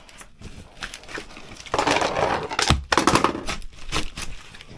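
A dirty air filter being pulled out of its slot: loud rustling, scraping and crinkling with sharp clicks and knocks, heaviest from about two seconds in to near the end.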